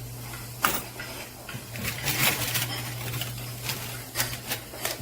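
Quarters clinking and clattering in scattered clicks, busiest about two seconds in, over the steady low hum of a coin pusher arcade machine.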